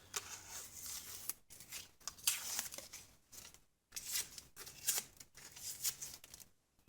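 Masking tape being peeled off freshly painted metal vise parts, in several short tearing pulls.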